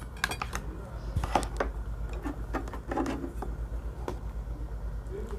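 Eating at a table: a scattering of short sharp clicks, like a spoon or chopsticks tapping a bowl, with soft mouth sounds of chewing and sipping, over a steady low hum.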